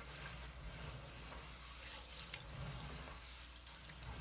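Faint sound of water at a sink as wild bird seed soaking in water is stirred and rinsed, with a few small clicks and splashes.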